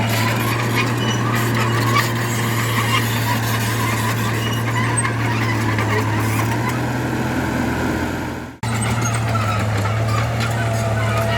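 Heavy earthmoving machinery running steadily: a diesel engine's low, even hum with the clatter and squeal of the working machine. The sound fades and drops out briefly about eight and a half seconds in, then comes straight back.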